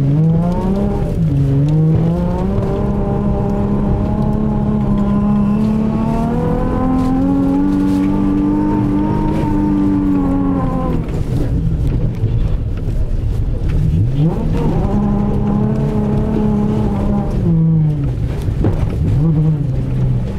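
Modded Nissan 350Z's 3.5-litre V6 engine revving up and down again and again, holding high for several seconds in the middle and dropping off about eleven seconds in before climbing again.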